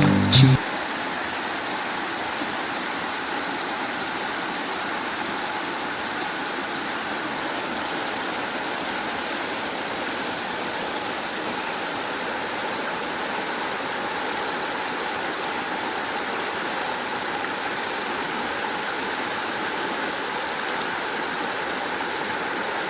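Steady, even rushing noise with no rhythm or tone.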